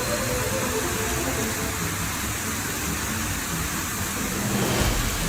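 Steady hiss of a heavy rainstorm, with a low rumble that builds near the end.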